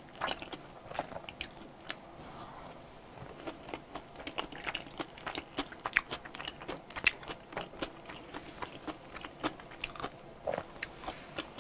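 Close-miked chewing of truffle cream pasta with mushrooms: an irregular run of sharp wet mouth clicks and smacks.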